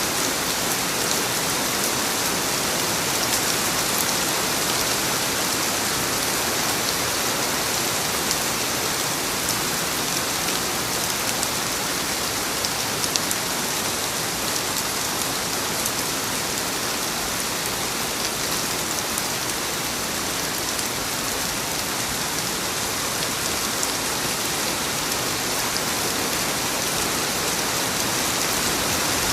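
Rain falling steadily, an even hiss with scattered sharp ticks of individual drops.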